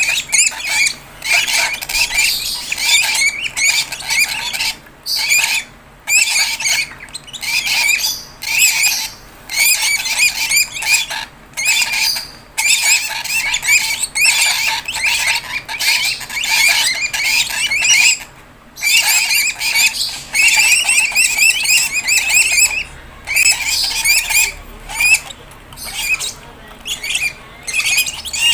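Fischer's lovebird chicks giving rapid, high-pitched squeaky begging calls in bouts of a second or two with brief pauses between, the calls of chicks asking to be fed by hand.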